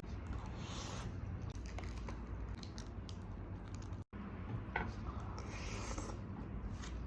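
Close-miked eating of chicken and rice: soft chewing with rustling and tearing noises from handling the food, a few small clicks, and a momentary drop-out about four seconds in.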